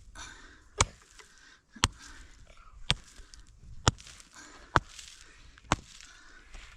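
An axe chopping wood: six sharp blows, about one a second.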